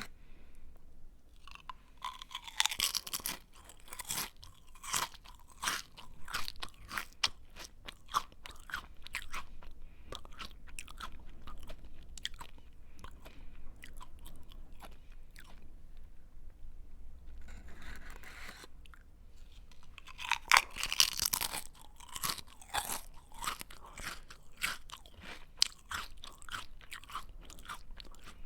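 Close-up chewing of a crunchy snack: a steady run of crisp crunches, with two louder, denser bursts of crunching, about two seconds in and again about twenty seconds in, as fresh bites are taken.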